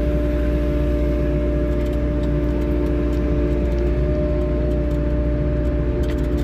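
Diesel engine of a 3W-class wheeled excavator running at a steady speed, an even drone with a constant hum and no change in revs.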